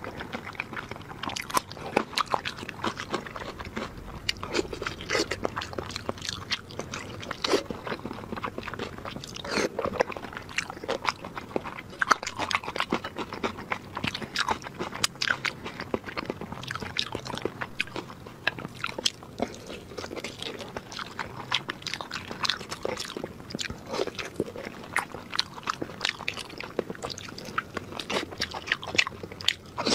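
Close-up eating sounds of a person chewing soft, fatty meat in chili oil: continuous wet chewing with frequent lip smacks and mouth clicks.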